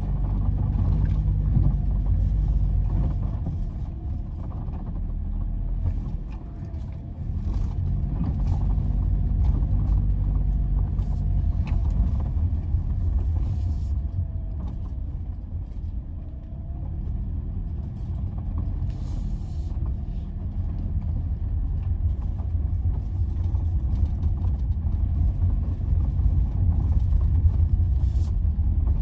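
Steady, fairly loud low rumble that dips and swells a little without stopping.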